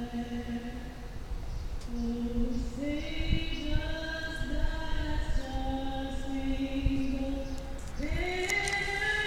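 A woman's voice singing solo, holding long sustained notes that step up and down in pitch, over a steady low rumble.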